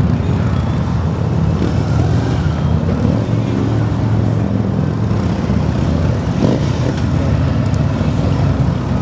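Police motorcycle engines running steadily at low pitch on the skills course.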